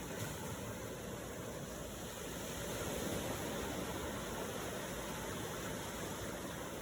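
Ocean waves: a steady hiss of surf, with a gentle swell building a couple of seconds in.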